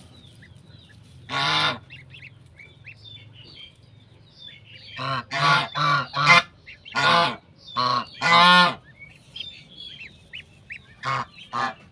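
Domestic goose honking: one honk about a second and a half in, a run of seven honks between five and nine seconds, and two more near the end. Goslings peep softly in short high-pitched calls between the honks.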